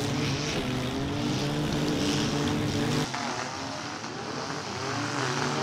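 Several demolition derby cars' engines running and revving together, their pitches wavering up and down. About three seconds in the sound suddenly drops and the engines are heard from farther off.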